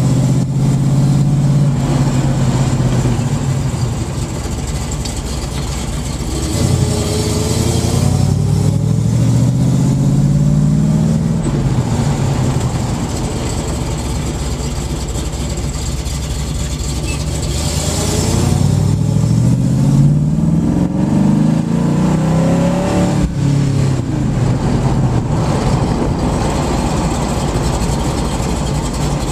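1967 Camaro SS's V8 engine running as the car drives, rising in pitch as it accelerates about a quarter of the way in and again about two-thirds of the way in, easing back to a steadier, quieter run in between.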